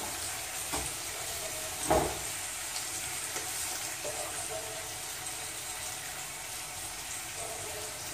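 Liver fillets sizzling in oil in a frying pan, a steady sizzle, with one sharp knock of a pan or utensil about two seconds in and a few lighter clinks.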